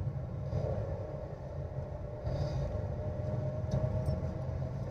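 Steady low rumble of engine and road noise from inside the cabin of a car being driven slowly, with a faint steady hum over it.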